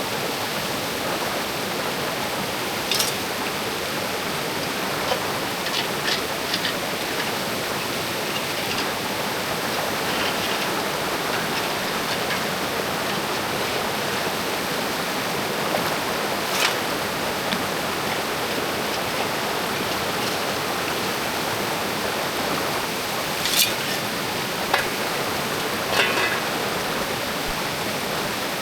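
Creek water rushing steadily, with a few short sharp clicks now and then.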